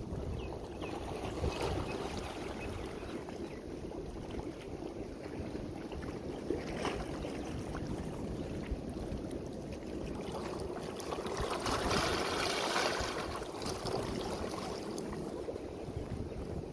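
Waves washing on a beach with wind rumbling on the microphone; a louder wash of surf swells up about eleven seconds in and dies away.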